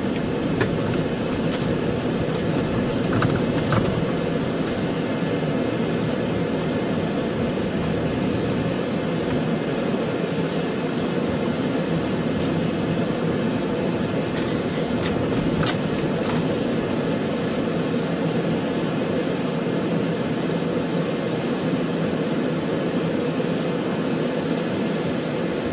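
Patrol car driving: steady engine and road noise, with a few sharp clicks now and then.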